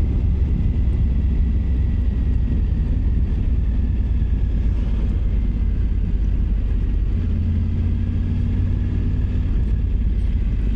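Triumph Tiger 900 Rally Pro's three-cylinder engine running as the motorcycle is ridden, a steady low rumble throughout.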